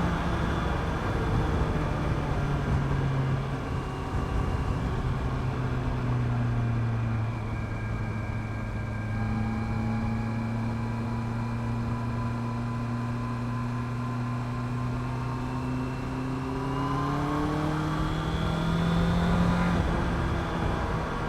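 Honda CB650R inline-four engine through its stock exhaust, ridden on the road: revs fall off over the first several seconds, hold at a steady cruise, then climb again near the end with a short dip.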